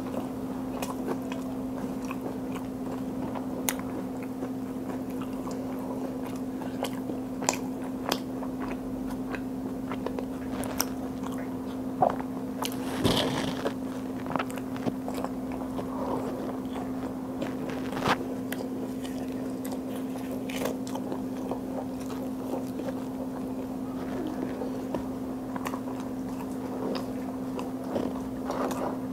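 Close-miked eating by hand: chewing, biting and wet mouth clicks over a steady low hum, with a louder crunchy bite about halfway through.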